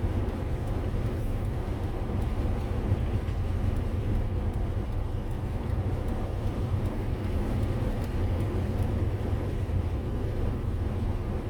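Steady low rumble of a motorhome driving along the road, engine and tyre noise running at an even pace.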